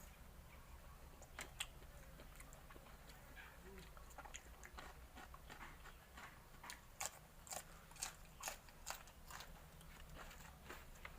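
A person chewing and crunching on fresh-shrimp pounded salad, a string of sharp, crisp crunches that come fastest in the second half.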